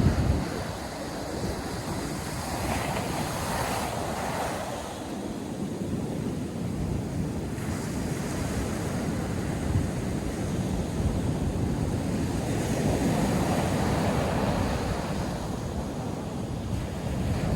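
Ocean surf breaking and washing on a sandy beach in waves that swell and ebb every few seconds, with wind buffeting the microphone.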